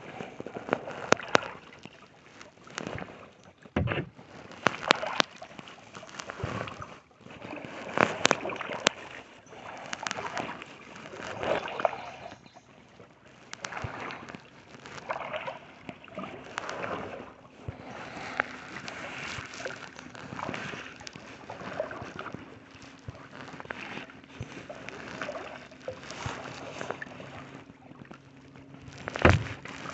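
Kayak paddle strokes: the blades dip and splash in the lake water in repeated surges every few seconds, with sharp knocks among the splashes.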